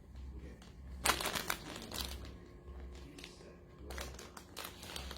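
A Pomeranian eating plantain chips: scattered crunching and crinkling, the strongest crackles about a second in and again near the end.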